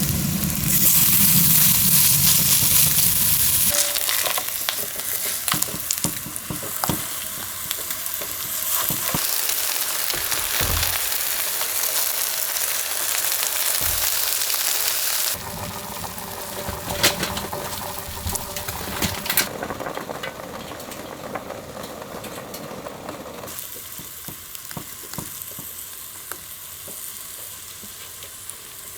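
Food sizzling and frying in a pan, with scattered clicks and scrapes of a utensil stirring it. The sound changes abruptly three times and grows quieter toward the end.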